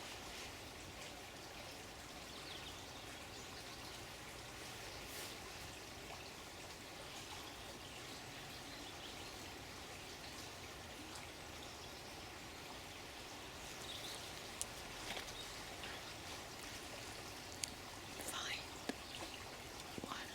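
Steady flowing water, like a stream or trickle, with a few short high bird chirps near the end.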